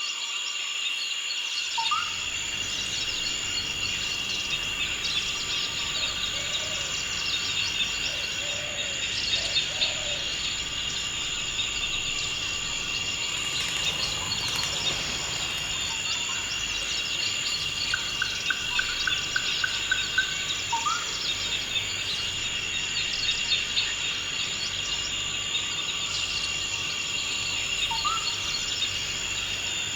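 Forest ambience: a steady high insect drone under frequent chirping birds. About two-thirds through, a bird gives a quick run of evenly repeated notes, and a few short rising whistled calls come and go.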